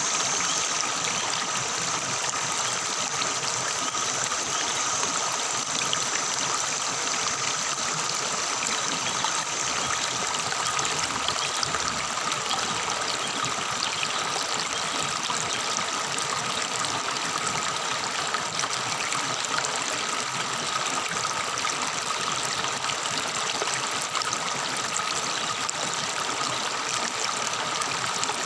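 Forest river water babbling and trickling over stones in a steady stream, with a steady high tone running through it.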